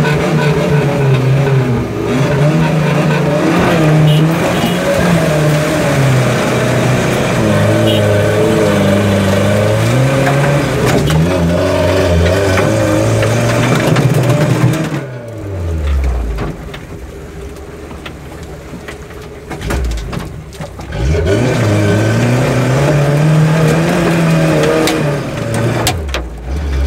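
Off-road 4x4's engine revving hard under load through mud, its pitch rising and falling again and again. About fifteen seconds in, the revs drop away to a low idle, then about six seconds later it revs up again and eases off near the end.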